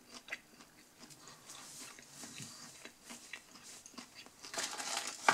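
Close-up chewing of a bite of breaded chicken strip: soft, irregular wet mouth clicks, louder in the last second.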